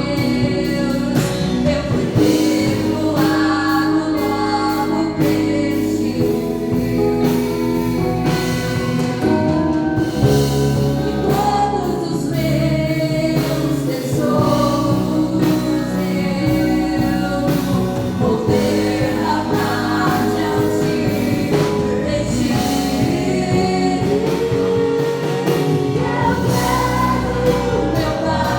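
Live gospel worship music: a group of voices singing together over an instrumental backing.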